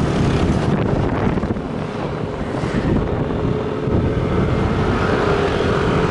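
Motorbike engine running while riding, with wind buffeting the microphone. A steady engine tone comes up in the second half.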